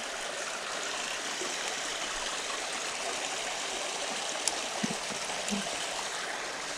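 Creek water flowing steadily, with a few faint short knocks a little past the middle.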